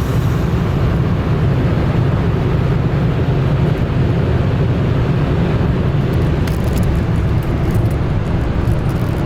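Car driving on the road, heard from inside the cabin: a steady, loud rumble of engine, tyre and wind noise.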